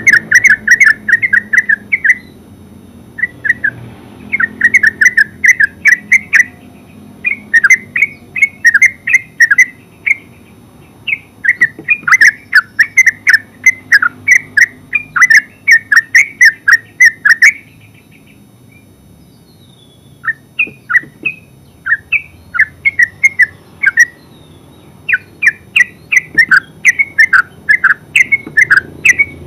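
Yellow-vented bulbul singing in its full song: long runs of quick, closely spaced notes, broken by short pauses and one longer pause a little past the middle.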